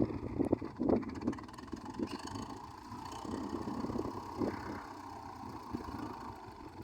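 U650 tractor's diesel engine running steadily, with a few scattered knocks, and settling quieter toward the end.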